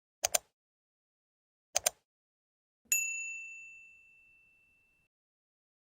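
Two double clicks, like a computer mouse, followed by a single bright bell ding that rings out and fades over about two seconds. This is the click-and-bell sound effect of a YouTube subscribe and notification-bell end screen.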